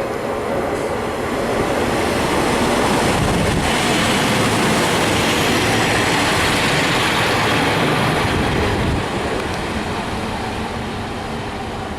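A train running past close by, with wheels on rail. The sound builds over the first couple of seconds, stays loud for several seconds, then eases off near the end.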